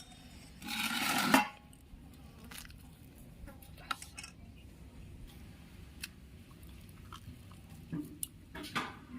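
A spoon scraping the pulp out of a cracked bael fruit's hard shell: one louder scrape about a second in, then faint intermittent scrapes and clicks.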